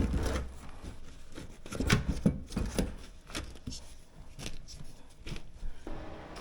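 Irregular clicks, knocks and rubbing of hand work, the loudest knocks about two seconds in, with no grinder running. A steady low hum starts near the end.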